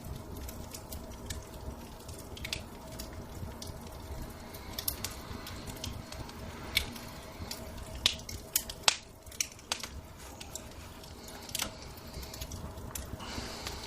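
Wood fire crackling in a fireplace, with irregular sharp pops over a low steady rumble; the loudest pops come about two-thirds of the way through.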